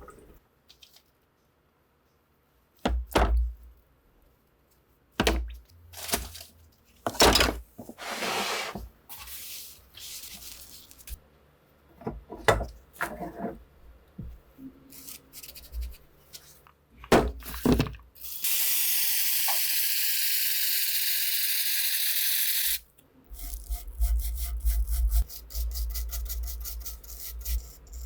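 Workshop handling sounds during a rifle restoration: separate knocks and clatters of parts being set down and handled, then a steady hiss for about four seconds. Near the end, fast rhythmic scraping strokes of filing or sanding begin.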